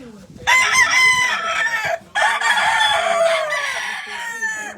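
A gamefowl rooster crowing loudly in two parts, with a short break about two seconds in. The second part is long and falls in pitch at the end. Faint hen clucking can be heard underneath.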